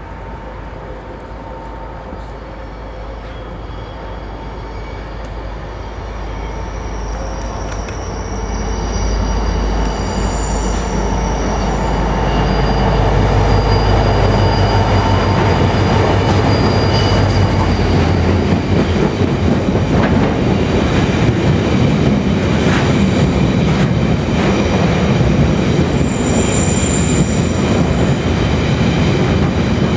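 Irish Rail 071 class diesel locomotive, a 12-cylinder EMD two-stroke, approaching and passing, growing steadily louder over the first twelve seconds or so. It is followed by the rumble of wagons loaded with continuous welded rail, with high wheel squeal and wheels clicking over the rail joints.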